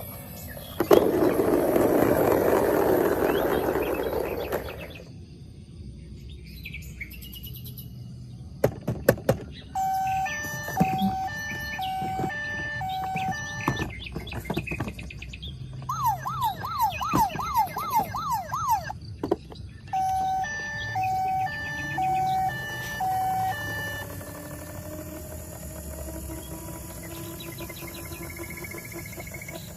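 Toy vehicle's electronic siren: a two-tone hi-lo pattern, a fast rising-and-falling yelp, then the hi-lo pattern again. A loud hissing rush fills the first few seconds.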